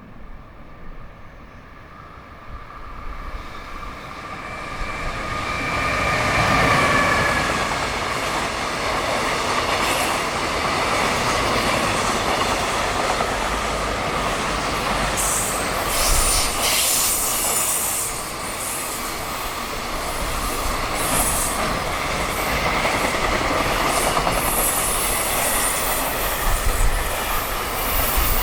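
JR Freight EF210 electric locomotive hauling a high-speed freight train through a station. The sound swells as it approaches, a whine from the locomotive comes through as it passes about six seconds in, and then the long string of freight wagons rushes past with the wheels clattering on the rails.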